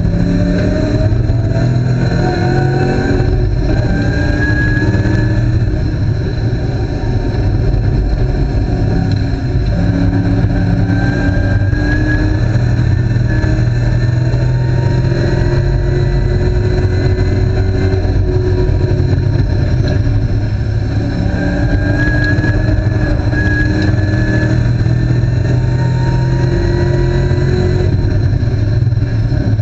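Spec Mustang race car's V8 engine heard from inside the cabin under hard acceleration on track. Its pitch climbs and then drops back several times as it runs up through the revs and shifts gear.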